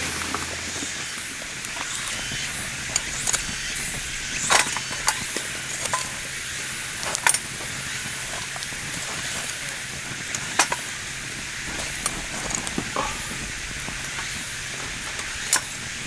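Food frying in a pan: a steady sizzle with scattered sharp pops and crackles.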